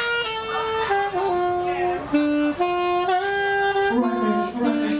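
Saxophone playing a melody of held notes that step up and down in pitch, with a lower line coming in about four seconds in.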